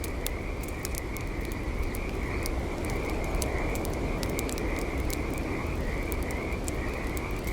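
Campfire crackling with frequent sharp pops and snaps, over a steady high, pulsing trill of a night chorus that never stops.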